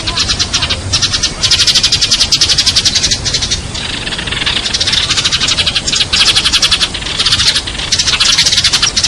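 Sparrows chirping continuously in a fast, dense chatter, many chirps a second, like a flock calling together.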